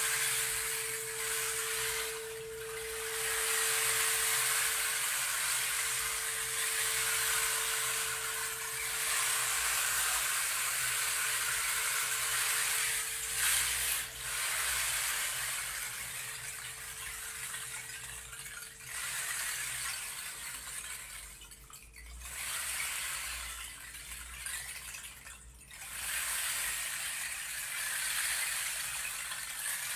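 A stream running steadily, with a singing bowl's single tone ringing and slowly fading away over about twenty-five seconds.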